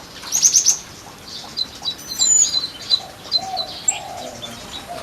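Small birds chirping in an aviary: a quick rattling run of high notes about half a second in, then many short high chirps and a few lower whistled notes.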